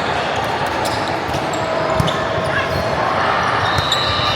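Volleyball gym: volleyballs being hit and bouncing on the court, with repeated sharp knocks (the sharpest about two seconds in) over a steady hubbub of voices.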